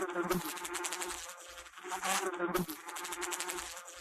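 Bee buzzing in flight, a steady hum that swells and fades about every two seconds as it comes near and moves away.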